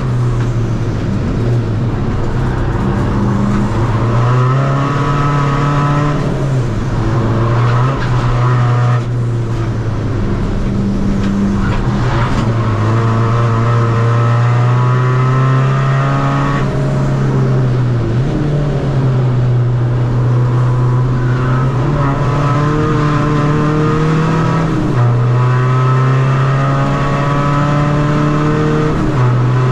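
Tuned, turbocharged 2.0 common-rail diesel engine of a Seat Ibiza FR driven hard on track, running at high load. Its note climbs and drops repeatedly, with sharp breaks about six, nine, twelve, seventeen and twenty-five seconds in.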